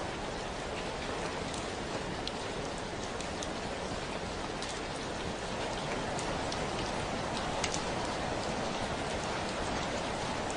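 Steady rain falling, with a constant hiss and scattered individual drops ticking on nearby surfaces.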